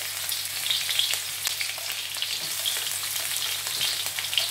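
Chopped garlic, ginger and green chilli frying in hot oil in a wok: a steady sizzle with scattered small crackles.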